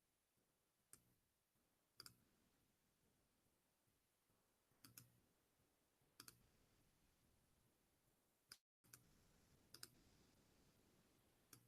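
Near silence with a handful of faint, sharp clicks spread irregularly through it.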